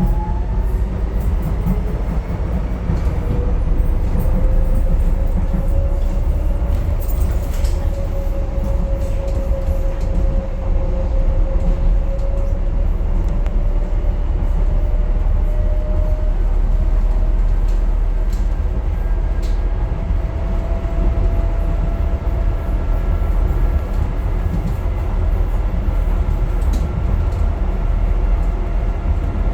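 Docklands Light Railway train running, heard from inside the carriage: a low rumble of wheels on the track, with the electric motors' whine rising in pitch over the first few seconds as the train picks up speed and then holding steady. A few faint clicks come from the wheels.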